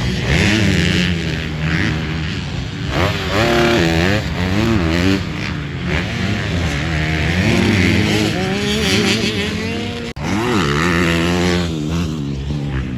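Several motocross dirt bike engines racing, their pitch rising and falling repeatedly as riders rev and shift. The sound drops out for a moment about ten seconds in.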